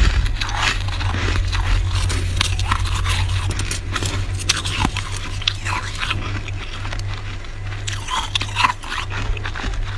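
Close-up crunching and chewing of a mouthful of flaky freezer frost, with many short crisp crunches one after another. A steady low hum runs underneath.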